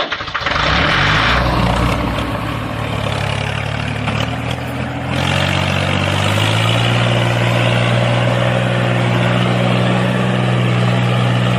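Engine running steadily with a low hum, its pitch stepping up slightly about five seconds in.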